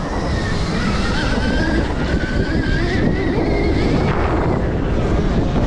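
Stark Varg electric dirt bike's motor whining while riding, the whine climbing slowly in pitch over the first few seconds, with heavy wind noise on the microphone.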